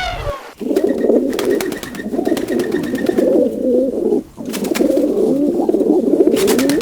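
Pigeons cooing in a continuous, warbling run, with a short break about four seconds in.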